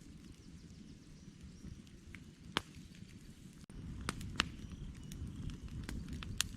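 Wood campfire crackling: scattered sharp pops and snaps of burning logs over a low steady rumble, which grows louder a little past halfway.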